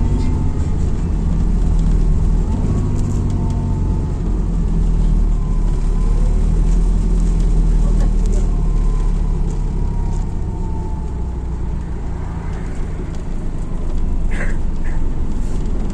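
MAZ-206 city bus under way, heard from inside: a steady low rumble from the diesel engine and driveline, with a faint whine that drifts slightly up and down, and a few short clicks and rattles near the end.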